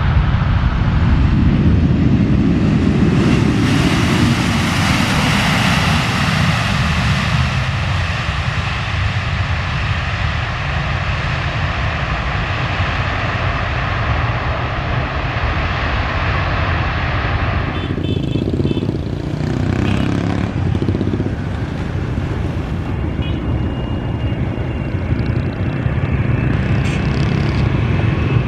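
Airplane passing low overhead on its landing approach. Its loud engine noise swells and drops in pitch in the first few seconds as it goes over, then settles into a steady rumble with a thin high whine.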